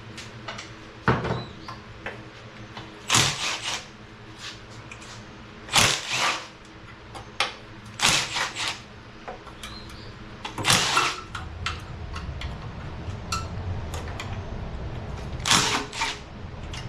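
Scattered metallic clanks and clicks of hand tools and engine parts while a Chevy 350 small-block is being taken apart: single knocks and short rattling clusters every few seconds.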